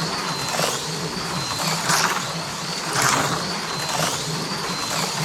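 HO-scale AFX Mega G+ slot cars running laps on a plastic track, their small electric motors whining. The sound swells each time the cars pass, about once a second, over a steady low hum.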